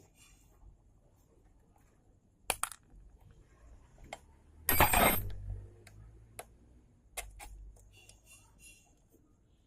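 A few sharp metallic clicks and clinks, with one louder clattering rattle about five seconds in, as hand tools and small metal parts are handled while working on a motorbike's brake cable.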